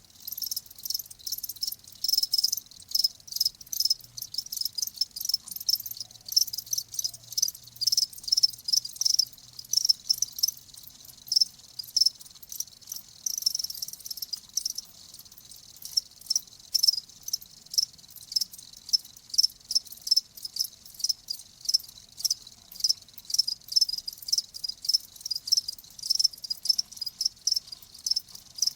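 Crickets chirping: a steady, rapid run of short, high-pitched chirps, several a second, overlapping as from more than one insect.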